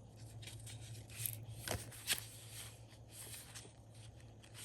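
Faint handling of paper: a few soft taps and rustles as sticker book pages and planner sheets are moved, over a low steady hum.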